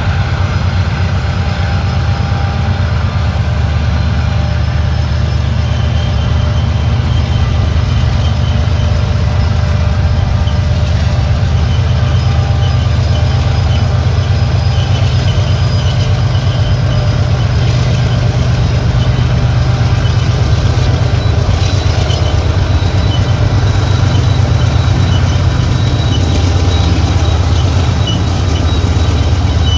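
Diesel freight locomotives running with a steady low rumble as a freight train moves past, with faint high tones coming and going.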